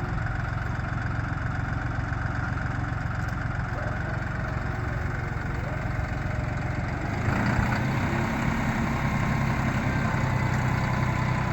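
Farm tractor engine running steadily, growing louder about seven seconds in as it is throttled up or put under load.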